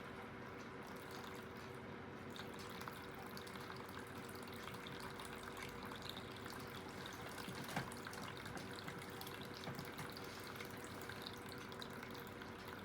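Aidoo 1 kg mini washing machine's direct-drive motor spinning the drum in an intermediate spin, a steady hum with water draining and splashing and a few light knocks. The load is a little bit unbalanced.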